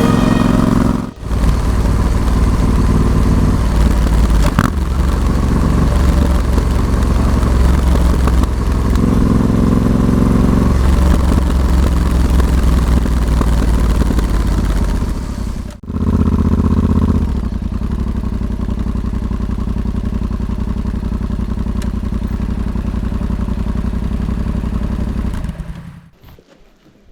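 Yamaha XSR700's parallel-twin engine through an SP Tadao Power Box Full RS exhaust, running on the move, its revs stepping up and down. The sound cuts out briefly twice and falls away near the end.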